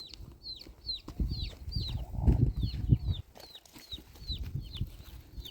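Chicken chirping in short, high, falling peeps about two a second. A louder low rumble of movement comes between about one and three seconds in.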